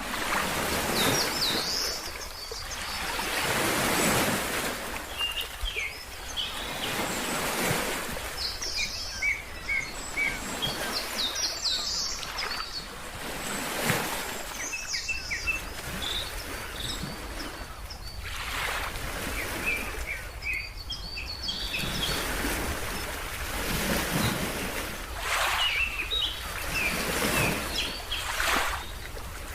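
Ocean waves washing in, swelling and fading every few seconds, with birds giving many short, high chirps over them.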